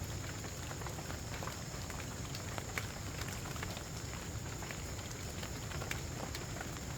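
Steady rain, with scattered sharp ticks of drops striking close by over a low, even rumble.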